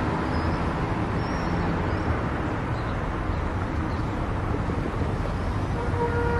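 Steady road and engine noise of a car driving on a highway, with a low rumble. A brief tone with a few overtones starts near the end.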